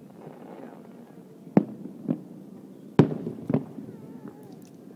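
Fireworks shells bursting: two sharp bangs about a second and a half apart, each followed by a softer bang about half a second later.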